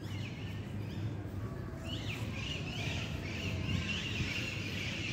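Songbirds in the park trees chirping and singing, a run of short repeated calls that grows busier about two seconds in, over a steady low background rumble.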